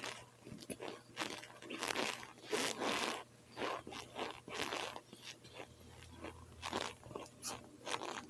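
Close-up chewing of cold boiled cornstarch chunks: an irregular run of crunches, strongest in the first three seconds and lighter toward the end.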